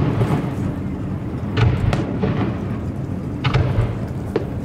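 Aerial fireworks shells bursting: four sharp bangs, two close together about one and a half seconds in and two more later, over a steady low rumble.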